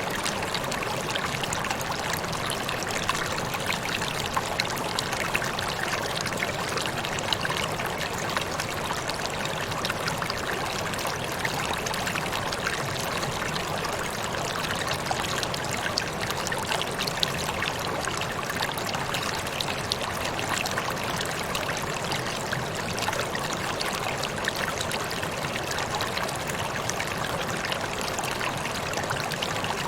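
Waterfall: water falling and splashing steadily, with many small splashes and trickles running through it.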